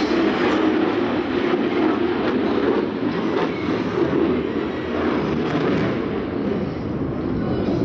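Jet noise from a Su-30MKM fighter's twin AL-31FP afterburning turbofans during a display maneuver: a loud, steady rumble with a ragged, crackling edge.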